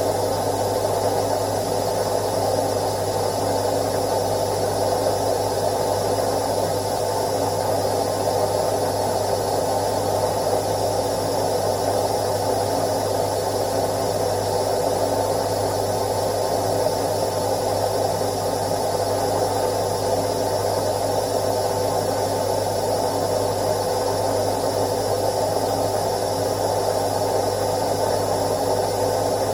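Indesit IWC71252 washing machine running steadily on a quick wash, a constant low hum under an even whirring noise with no pauses or changes in pitch.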